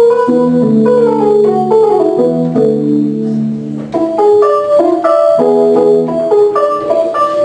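Electronic keyboard playing a solo instrumental piece in a piano-like voice: a melody of short notes over held chords, with a brief lull about halfway through.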